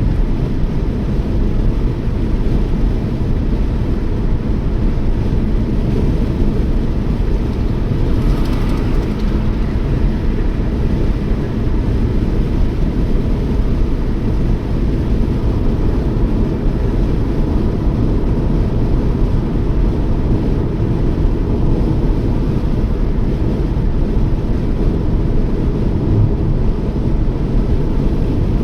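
Steady low rumble of a Toyota Yaris driving at speed at night, tyre and engine noise with no change in pace. A brief higher hiss rises and fades about eight seconds in.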